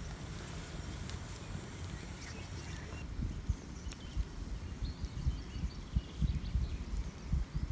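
Steady hiss of light rain, with irregular low thumps that come more often from about three seconds in.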